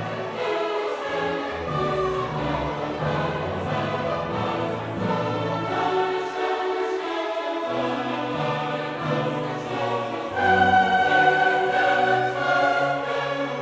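Classical choral music: held sung notes over a moving bass line, growing louder about ten seconds in.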